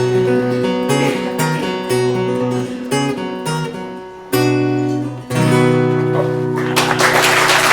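Acoustic guitar playing the closing phrase of a song, ending on two strummed chords, the last one left ringing. Applause starts near the end.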